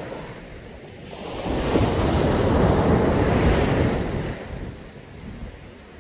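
Caribbean Sea surf on a beach: a wave swells about a second and a half in, breaks, and washes back out after about four seconds.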